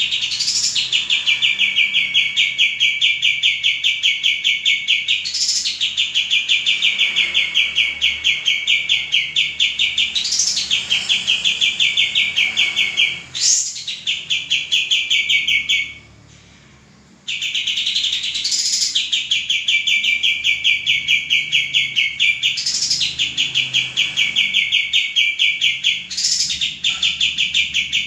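Male kapas tembak songbird singing loudly in long, very fast trills. Each phrase opens with a quick upward sweep, and the phrases repeat one after another, with one brief pause about two-thirds of the way through.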